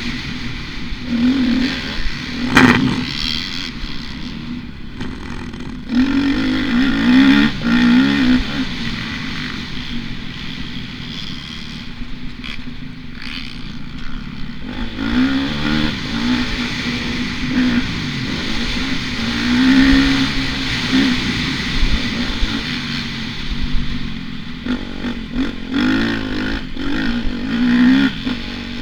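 Motocross bike engine revving up and down again and again as the throttle opens and closes, with some clatter and a sharp knock about two and a half seconds in.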